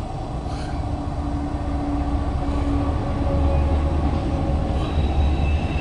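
Loaded CSX autorack freight train rolling by, a steady low rumble of wheels on rail, with a faint high squeal coming in near the end.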